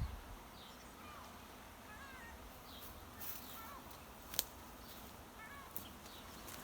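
Faint outdoor ambience with scattered short bird chirps and a single sharp click about four seconds in.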